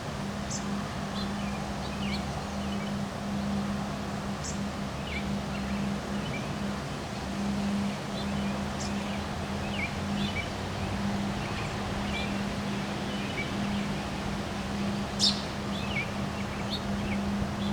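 Birds chirping in short, scattered calls over steady wind noise and a constant low hum, with one sharper, louder call about fifteen seconds in.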